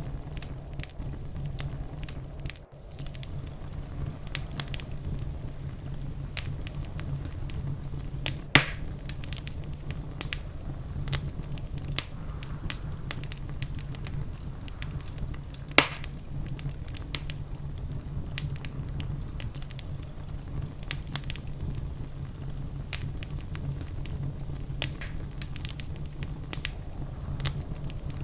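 Wood fire in a fireplace crackling steadily, with frequent small pops and two louder pops, about a third of the way in and just past halfway, over a low steady rumble.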